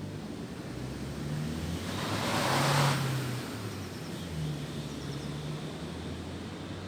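Wind blowing through tree branches and leaves, swelling into a louder gust about two to three seconds in, then easing back to a steady rush. A low rumble runs underneath.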